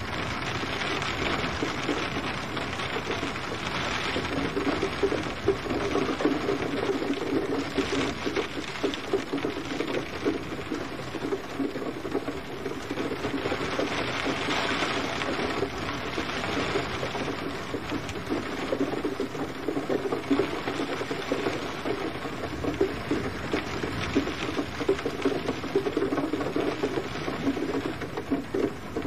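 Steady gentle rain, with dense drops pattering on a surface.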